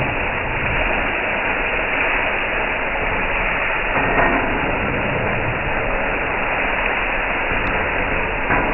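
Steady, even rushing noise of a restaurant kitchen during cooking.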